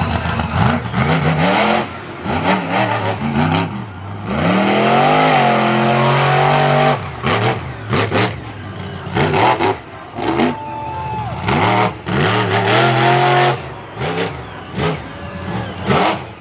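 Off-road race vehicle engine revving hard: it climbs and holds a high rev about five seconds in, then is blipped up and down in short bursts with brief drops in between.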